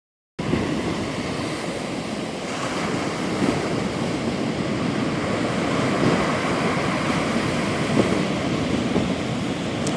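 Sea surf breaking continuously on the shore of Sagami Bay, the sea still stirred up after a typhoon, with some wind buffeting the microphone.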